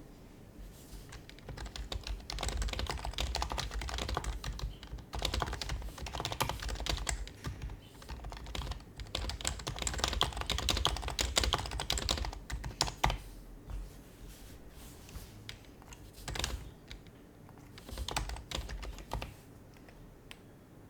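Typing on an HHKB Professional Hybrid Type-S keyboard with Topre switches: rapid runs of keystrokes with a short pause, then slower scattered keypresses, dying away near the end.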